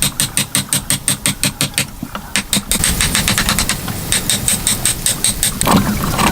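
A machine running with a rapid, even knocking, about nine knocks a second; near the end a louder, denser mechanical noise joins it.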